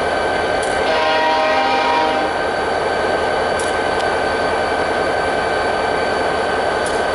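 Train horn sounding one chord-like blast of about a second and a half, starting about a second in, over a steady rumble.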